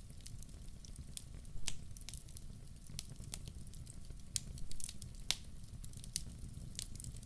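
Fire in a fireplace crackling: irregular sharp pops and snaps, a few each second, over a steady low rumble of the flames.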